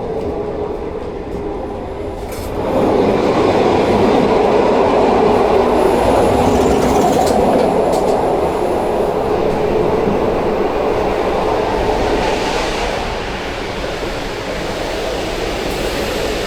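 Passenger train running on the rails, heard from inside the carriage as a steady rumble; it grows clearly louder about three seconds in and stays loud.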